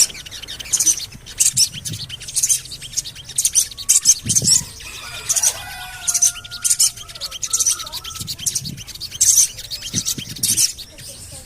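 Sogon bird calling: short bursts of rapid high chirps, 'cuit cuit cuit', repeating about once a second, with a few lower drawn-out notes in the middle. A lure call played to get caged sogon birds to start singing.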